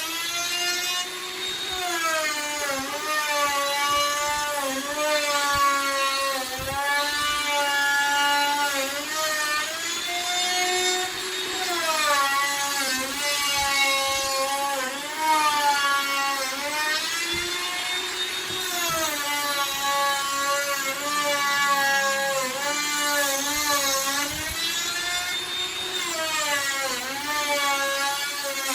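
Handheld electric router carving wood: a steady motor whine whose pitch sags and recovers every few seconds as the bit bites into the wood and eases off.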